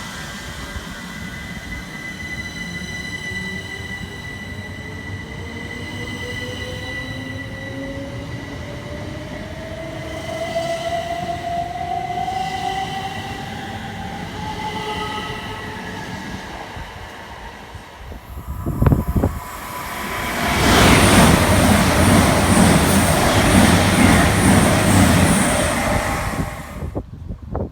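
Passing trains: first a whine that rises slowly in pitch over several seconds, as of a train's motors accelerating, then a train passing close by at speed, loud for about six seconds before the sound cuts off suddenly near the end.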